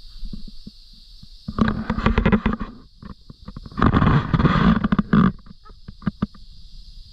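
Small firework going off in two bursts of rapid crackling and popping, each about a second and a half long, with a few scattered pops after. A steady high chirring of insects runs underneath.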